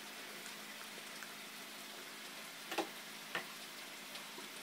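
Quiet steady hiss of room tone with a faint hum, broken by two small clicks a little over half a second apart, a bit under three seconds in.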